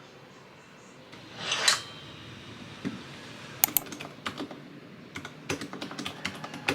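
Typing on a keyboard: irregular clicks of keys, after a short swish about one and a half seconds in.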